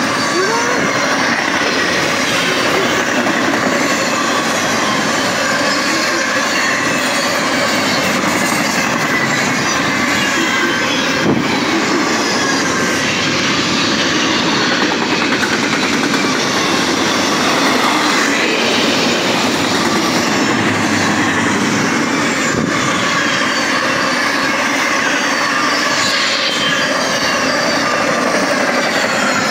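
Intermodal freight train's double-stack well cars and trailer flatcars running past fast: a steady loud rush of steel wheels on rail, with high squealing tones gliding up and down throughout.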